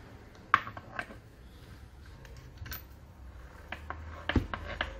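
Scattered light clicks and knocks of angle-grinder parts being handled and fitted, the sharpest about half a second in and a quick cluster near the end.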